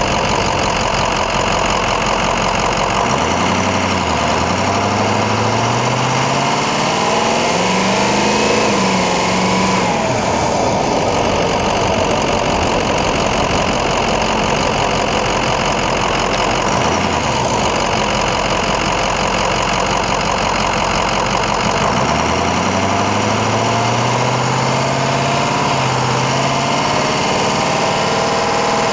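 Ford 6.0L Powerstroke turbo diesel V8 heard from under the hood. It runs at idle, climbs in pitch as the truck accelerates from about 3 to 9 seconds, and drops back to idle. A little past 20 seconds it climbs again and holds a steady higher speed near the end.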